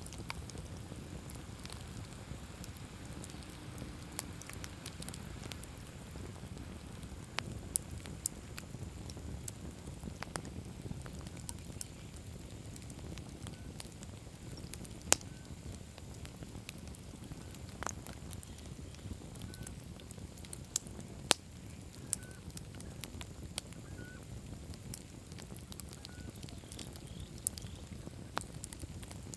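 Wood campfire crackling: scattered sharp pops and snaps over a low steady rumble, with two louder pops about fifteen and twenty-one seconds in.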